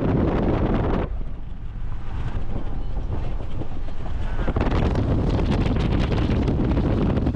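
Strong wind buffeting the microphone, a steady low rumble that eases for a few seconds about a second in, then picks up again.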